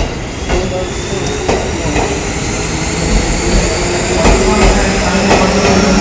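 JR 211 series electric multiple unit moving through the station, its running noise and motor hum growing steadily louder, with the wheels clacking at intervals over rail joints.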